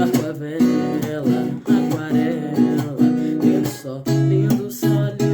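Acoustic guitar strummed as song accompaniment, its chords held and ringing over the last second or so.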